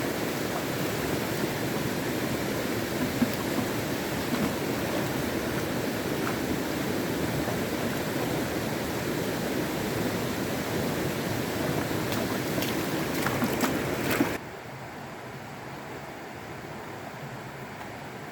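Steady rush of flowing water, with a few sharp clicks near the end. It cuts off suddenly about fourteen seconds in, leaving a quieter steady hiss.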